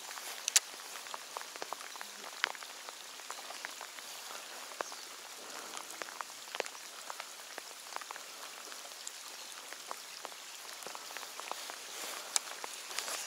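Steady rain falling, with many irregular sharp ticks of single drops striking close by.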